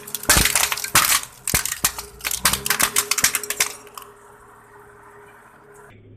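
Crunchy objects being crushed under a car tyre: a rapid run of sharp cracks and snaps for about four seconds, then it stops.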